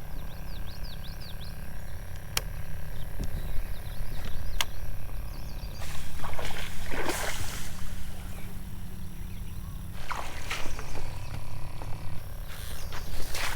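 Creekside outdoor ambience: a steady low rumble under a few short bird chirps in the first second and a half, with a couple of sharp clicks and several short bouts of rustling handling noise.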